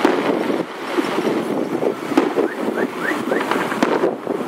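Fireworks crackling and popping at a distance, with a few short rising whistles in the middle, over road traffic and wind on the microphone.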